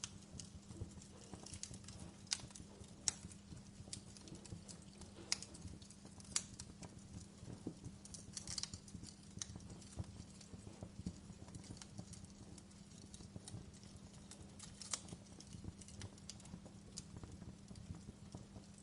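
Wood fire burning in a fireplace, crackling with irregular sharp pops, a few of them louder than the rest, over a low steady hum.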